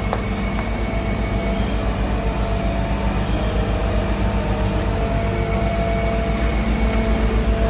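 Heavy machinery's engine running steadily, with a fast low throb under a steady whine. A single click comes right at the start.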